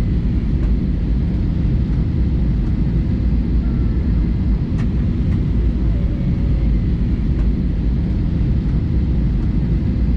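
Steady low rumble of an Airbus A320-200's engines and airflow heard inside the passenger cabin in flight, with a few faint ticks and rattles.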